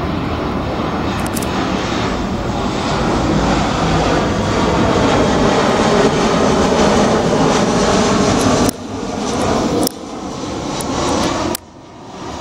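Airliner engines during arrival, a loud, steady noise that swells over the first six seconds. It then breaks off abruptly three times near the end as it jumps between recordings.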